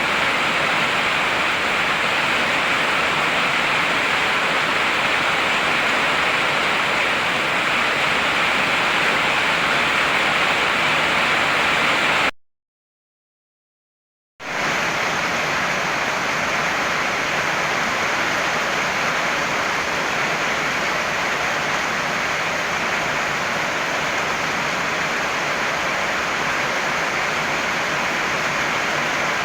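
Heavy rain falling as a steady, even hiss. About twelve seconds in it cuts out to complete silence for about two seconds, then starts again abruptly with a slightly changed tone, as at an edit join in a looped recording.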